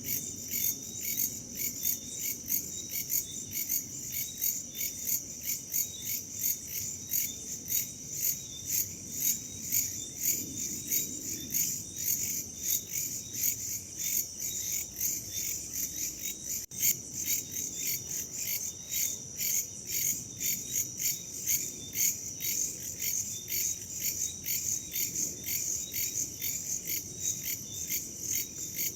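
Crickets chirping in an even, continuous pulsing, over a soft low rush of wind.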